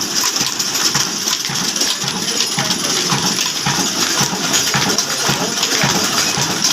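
Old Ruston Hornsby diesel engine running, a steady rhythmic mechanical clatter with metallic clinking and a constant hiss.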